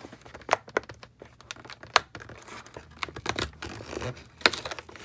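Packaging being torn open and crinkled by hand: irregular rustles and sharp crackles, the loudest about two seconds in and again near the end.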